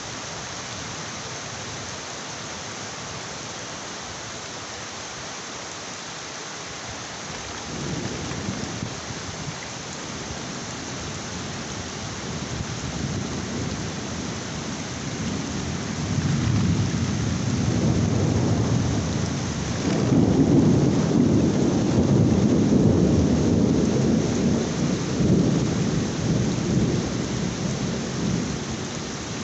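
Heavy rain falling steadily, with long rolling thunder that begins to rumble about a quarter of the way through, swells to its loudest past the middle and dies away near the end.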